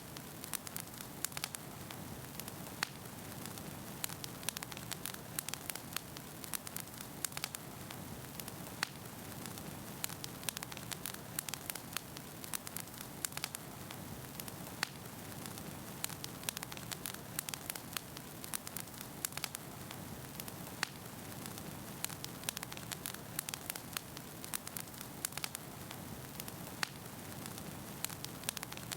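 Wood fire burning in a fireplace, with a steady low rush under frequent sharp crackles and pops of the burning logs, several a second.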